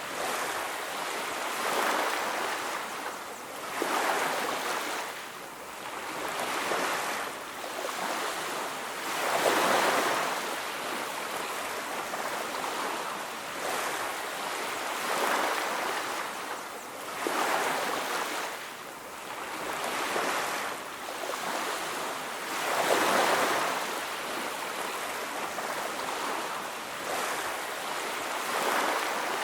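Ocean surf washing onto a beach: a steady hiss of waves swelling and ebbing every two to three seconds, with two bigger waves breaking about a third of the way in and again about three quarters in.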